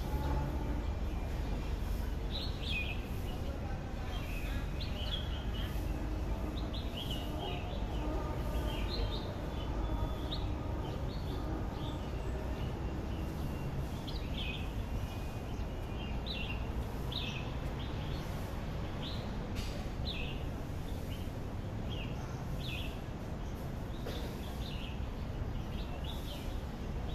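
Small birds chirping: short, high chirps recurring about once or twice a second over a steady low rumble.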